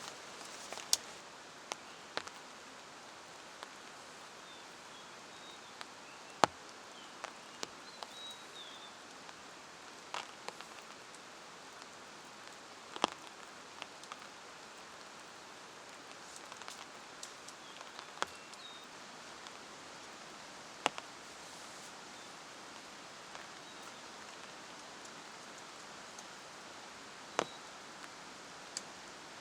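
Steady rain hiss, with a sharp single tick or tap every few seconds, like heavy drops striking.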